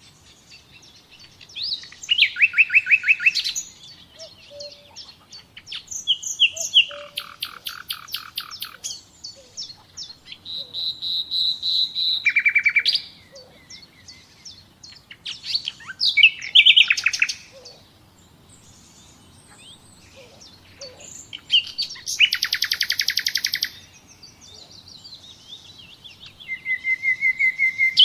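Songbirds singing: loud phrases of rapidly repeated, trilled high notes, each one to three seconds long, come every four to six seconds, with softer chirps in between.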